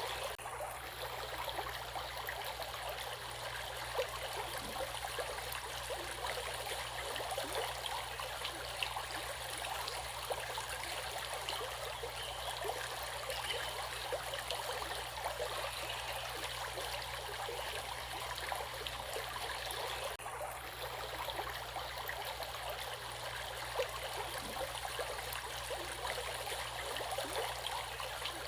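Flowing stream water, a steady even rush with fine splashing and trickling, briefly thinning in its highest part about 20 seconds in.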